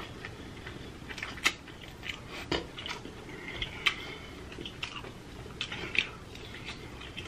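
Close-miked chewing and biting of boiled seafood: wet smacks and clicks of lips and teeth, scattered every half second or so, with a few sharper smacks.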